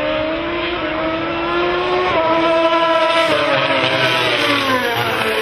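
Racing motorcycle engine at high revs. The note climbs, steps about two seconds in, then falls over the last couple of seconds as the bike passes or slows.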